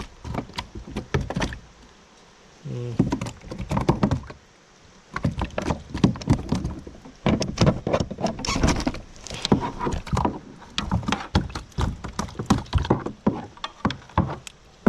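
Irregular knocks, thumps and rattles against a kayak as a small shoal bass thrashes and is handled while being unhooked, coming in bursts with brief lulls between them.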